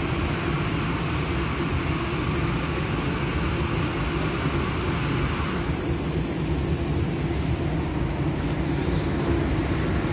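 Steady low mechanical drone and rumble with a hiss.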